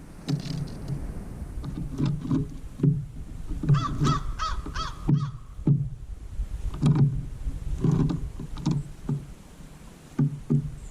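A bird giving a quick series of about five harsh calls a few seconds in, with fainter calls later, over repeated low thumps.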